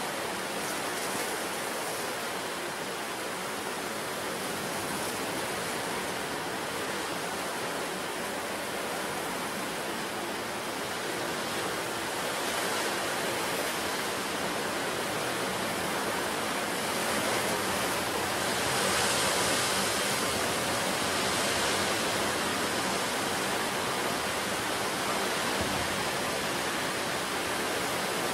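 Sea surf rushing steadily onto the shore, swelling as a bigger wave breaks about two thirds of the way through.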